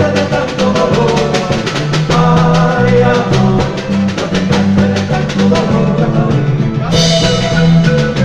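Andean folk band playing an instrumental passage with a steady beat and changing bass notes, with drums and percussion, and a bright crash about seven seconds in.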